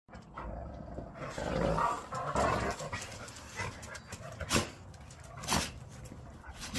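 American bully dog sounds, with two short, sharp sounds about a second apart past the middle.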